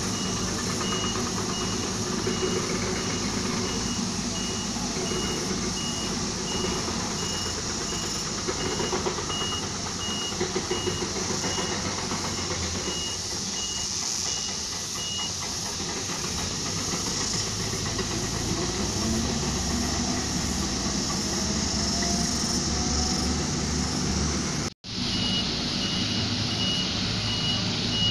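Diesel engine of a heavy road-construction machine running, with its reversing alarm beeping steadily for about the first half. The beeping stops for a while, then starts again after the sound cuts out for a moment near the end.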